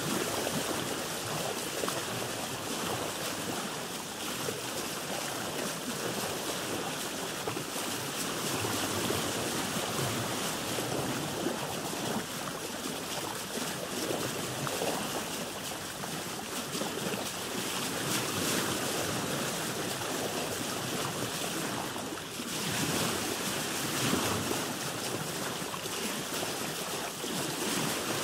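Sea waves heard from a boat: a steady rush of water, swelling and easing gently.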